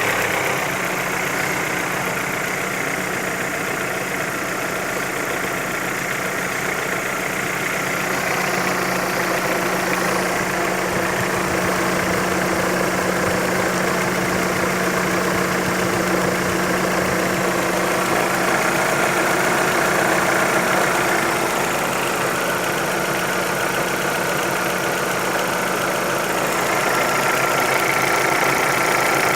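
Engine idling steadily with a knock in it, the knock whose source is being hunted down.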